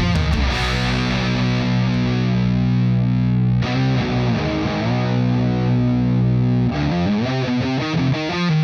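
Heavily distorted electric guitar, a BC Rich Shredzilla played through the Baghdad preamp pedal, which emulates a Soldano head into a Matamp GT120 for a sludgy doom-metal tone. It holds a long low chord, changes to a second ringing chord a little before halfway, and breaks into a faster chugging riff near the end.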